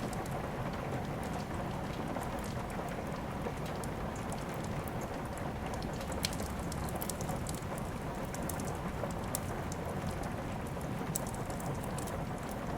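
Steady rain with a wood fire crackling: an even hiss of rain, with scattered sharp pops and clicks, one a little louder about six seconds in.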